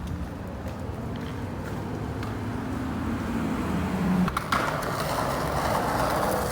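Skateboard wheels rolling over pavement with a steady rumble. A couple of sharp clicks come about four and a half seconds in, followed by a louder hiss.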